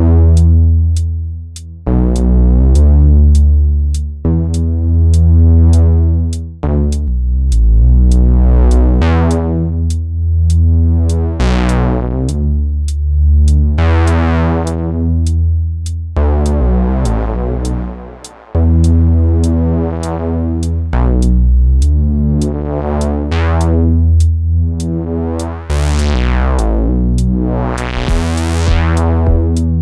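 Eurorack synth bass sequence played through the Swenigiser Proto VCF/A filter, driven hot for a gritty tone. The filter cutoff sweeps open and closed again and again, so the notes brighten and darken. A steady drum-machine tick runs underneath.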